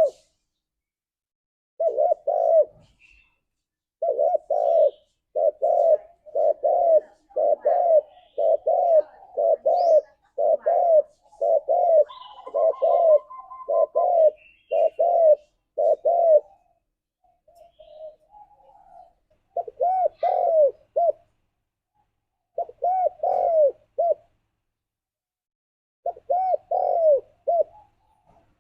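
Spotted dove cooing, calling to its companions: short, mellow coo notes repeated in phrases. There is one long run of about a dozen notes, then three shorter phrases with pauses between them.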